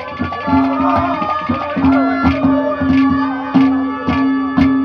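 Instrumental break in Haryanvi ragni folk music: steady hand-drum beats over a held drone note, with a melody line above it.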